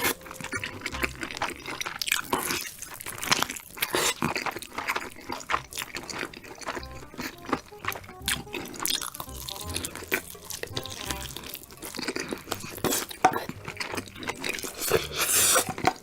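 Close-miked eating of whole chicken: irregular crunching, wet chewing and tearing, with many short sharp snaps that are loudest near the end.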